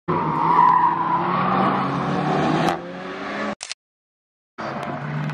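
Renault Clio RS hatchback engines, turbocharged four-cylinders, running under load through a corner, the pitch rising and falling. The sound drops off and cuts out to silence for under a second about three-quarters of the way in, then a second car's engine comes in running steadily.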